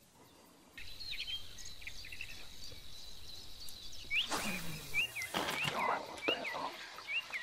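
A bird calling repeatedly in short rising-and-falling chirps, about three every two seconds, starting about four seconds in. Under it runs a faint steady high tone over outdoor hiss, with a brief louder rush of noise just before the chirps begin.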